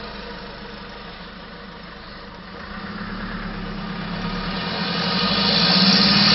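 Nissan Navara's turbocharged engine with an open airbox, settling lower about a second in, then building up steadily in revs. The turbo whistle and intake hiss grow louder toward the end.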